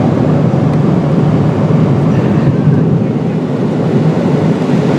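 Steady cabin noise inside a Boeing 777-300ER in cruise: the even rush of airflow and engines, with the most weight low down.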